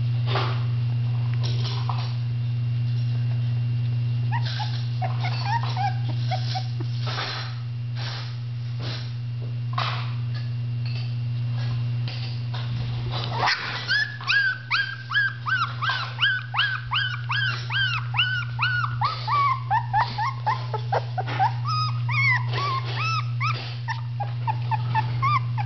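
Young Mudi puppies whimpering and squealing. Scattered short cries come first; from about halfway there is a quick run of high squeals, about three a second, each sliding down in pitch.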